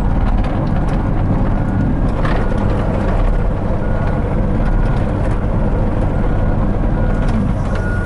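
Hitachi 35U mini excavator's diesel engine running steadily under load while it works, with short high tones coming and going over it.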